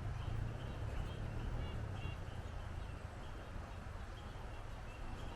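Wind buffeting the microphone with a steady low rumble, and short high chirps from a bird or insect repeating about twice a second.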